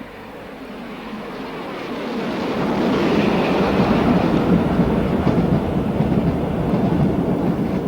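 Steam-hauled express train running at speed. Its noise builds over the first few seconds as it approaches, then holds steady.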